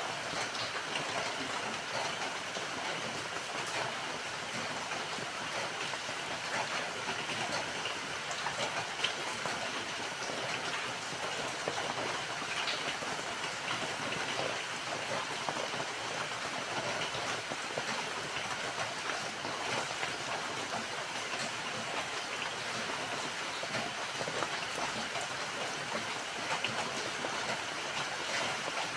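Rain falling steadily, an even hiss with scattered small drop ticks.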